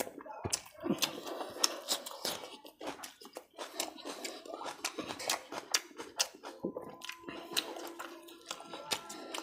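Close-up eating sounds: a man chewing a bite of raw onion, with many crisp crunches and wet mouth clicks and smacks at an irregular, fast rate.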